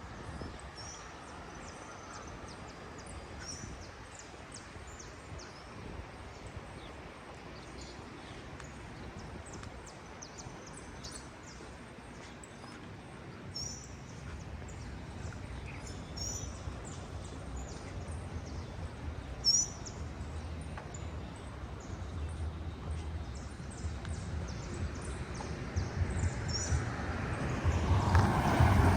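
Small birds chirping in short high calls over a steady outdoor background hiss. In the last few seconds a louder, deep rumble builds.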